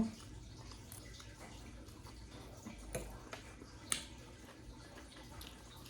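Faint eating sounds at a meal table, with two light clicks about three and four seconds in.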